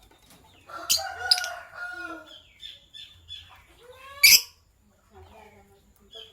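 Lovebirds chirping in short, sharp, shrill notes, the loudest about four seconds in, with a lower, drawn-out call about a second in.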